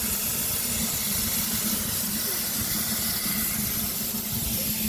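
Steam locomotive standing and hissing steam steadily, over a steady low hum.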